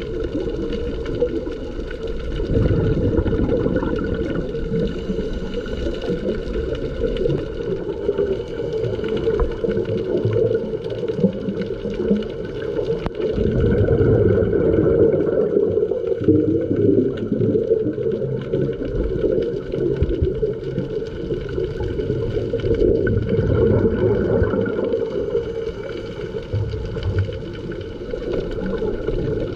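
Underwater ambience picked up by a camera: a steady hum with several held tones, under low rumbling and gurgling that swells and fades every several seconds.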